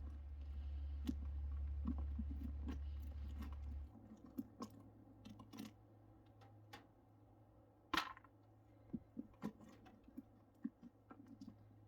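Scattered soft clicks, scrapes and crunches of hands and a knife working inside a freshly opened pumpkin. A low hum under the first four seconds cuts off abruptly.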